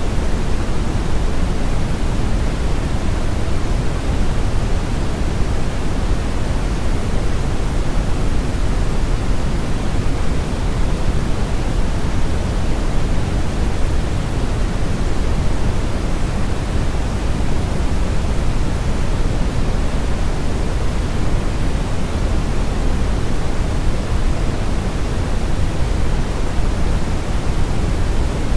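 Steady, loud brown noise: a constant deep rumbling hiss, strongest in the bass and falling away in the treble, with no changes.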